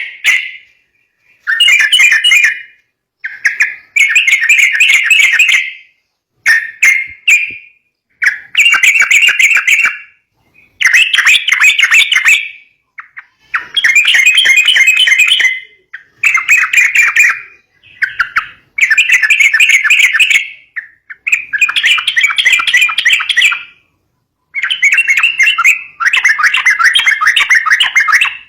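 Yellow-vented bulbul (trucukan) calling in repeated bursts of rapid chattering notes. Each burst lasts a second or two, with short pauses between.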